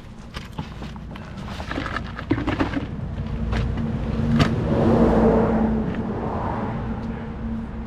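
A motor vehicle's engine hum that swells to its loudest about five seconds in and then fades, with scattered sharp clicks and knocks over it.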